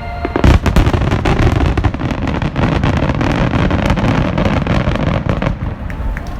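Fireworks going off: a loud sudden burst about half a second in, then a dense barrage of many sharp crackling pops that thins out near the end.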